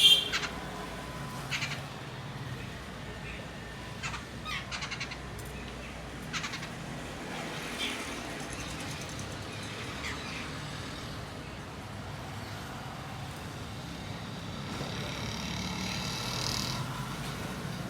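Small birds chirping in short, scattered calls every second or two, with a longer run of high chirping near the end.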